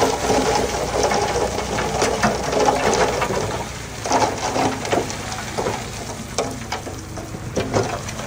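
Komatsu D31P bulldozer's diesel engine running steadily at low revs, with irregular metallic clicks and clanks over it.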